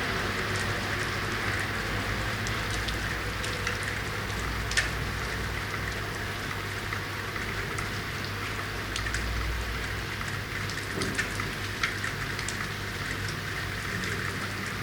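Steady rain: a continuous hiss with scattered sharp drip taps, the loudest about five seconds in, over a low steady hum.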